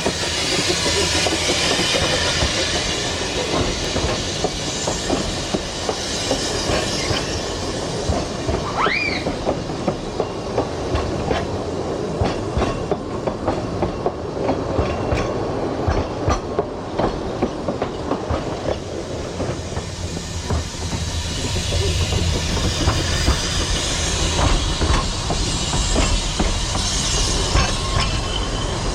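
Narrow-gauge train running along the track, its wheels clattering and clicking over the rails with a steady rumble. A brief high wheel squeal sounds about nine seconds in.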